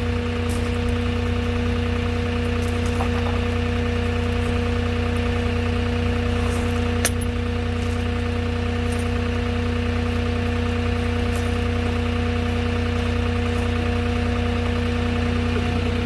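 Moffett truck-mounted forklift's diesel engine running steadily with an even hum, one sharp click about seven seconds in.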